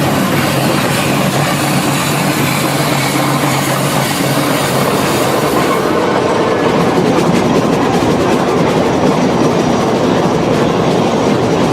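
Train running along the track: a steady, loud rumble and rattle of the cars and wheels. The high hiss on top of it drops away about six seconds in.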